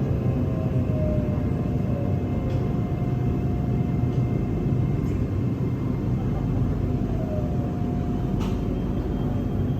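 Red Line electric commuter train running, heard from inside the carriage: a steady low rumble with a faint motor whine drifting slightly in pitch and a few light ticks.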